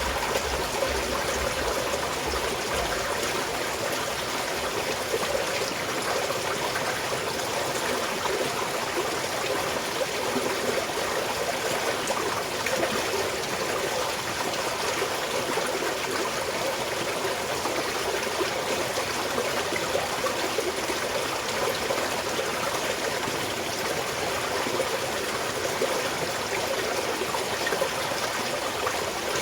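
Small mountain stream flowing steadily.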